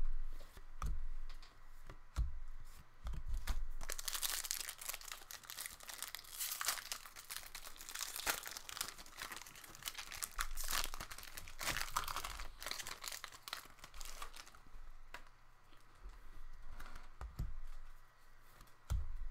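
A 2017-18 Upper Deck MVP hockey card pack wrapper being torn open and crinkled in the hands, densest from about four to fourteen seconds in, with lighter rustles and taps of handling before and after.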